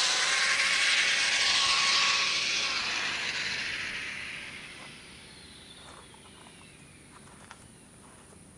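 Arrma Limitless RC speed car's brushless motor and drivetrain whine with tyre hiss, fading away and falling in pitch as the car slows after its high-speed pass. It dies down by about five seconds in, leaving only faint ticks.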